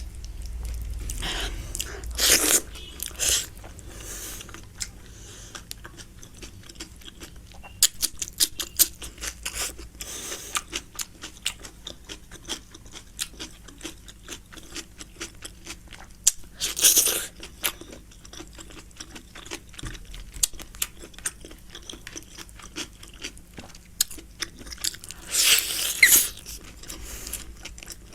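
Close-miked mouth sounds of a person eating biryani: wet chewing and crunching with many small clicks, and a few louder crunchy bursts about two seconds in, around the middle, and near the end.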